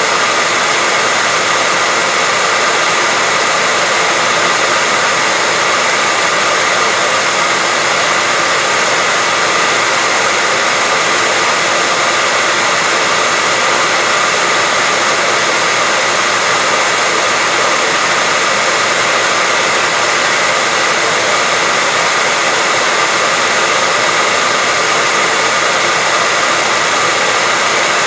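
Hair dryer running steadily: a constant rush of blown air with a faint steady whine, unchanging throughout.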